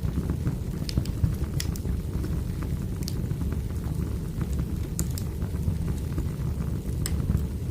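Wood fire burning: a steady low rumble of flames with sharp crackles and pops from the burning logs every second or two.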